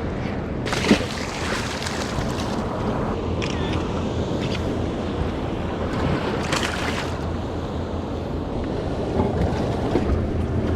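Waves and wind around a small fishing boat, with wind buffeting the microphone over a steady low hum. A few brief, sharper sounds stand out, about a second in and again past the middle.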